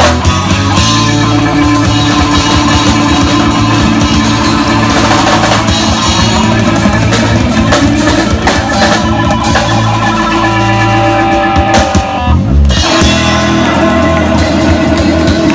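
Rock band playing: electric guitar, bass and drum kit. About twelve seconds in, the music briefly drops out to a low, sliding bass note before the full band comes back in.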